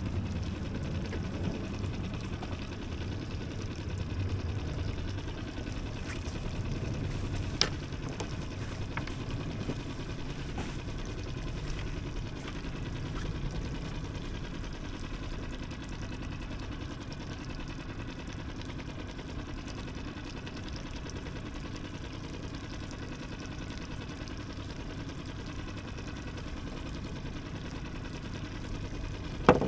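Sailboat's small auxiliary engine running steadily at low speed while motoring. There is a sharp click about a quarter of the way in and two loud knocks at the very end.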